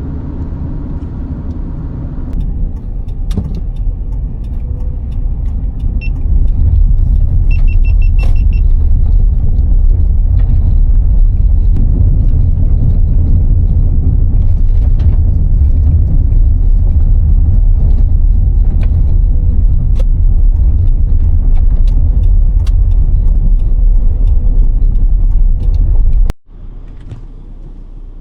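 Car in motion: a heavy, low road-and-wind rumble that builds about two seconds in, becomes much louder from about six seconds, and cuts off suddenly near the end.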